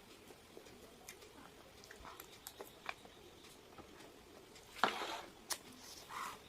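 Quiet eating sounds: scattered small clicks and taps of chewing and handling food, with a brief louder rustle about five seconds in.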